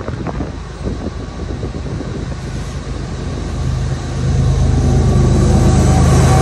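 GE Evolution-series diesel locomotives hauling an intermodal freight train, with a few sharp clicks early on, then a steady low engine drone that gets louder about four seconds in as the locomotives draw near.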